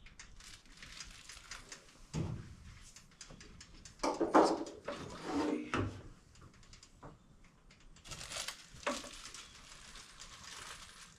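Hand tools working on engine-bay fittings: a ratchet wrench clicking and metal tools clinking, with a louder bout of clanking about four seconds in.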